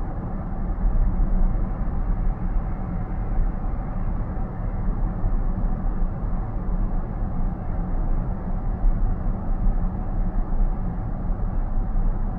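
Steady road and tyre noise heard from inside a car's cabin at highway speed, about 80 km/h: an even, low-pitched rumble with no separate events.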